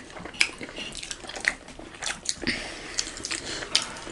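Close-miked eating sounds: chewing and biting fried momos, with irregular soft wet clicks and smacks.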